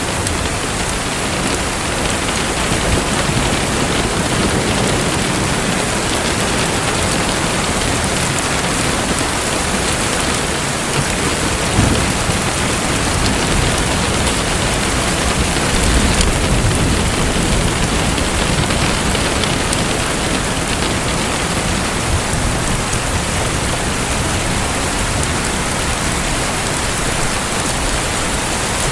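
Steady, dense hiss of falling and splashing water, like heavy rain. A low rumble swells briefly twice, about twelve seconds in and again some four seconds later.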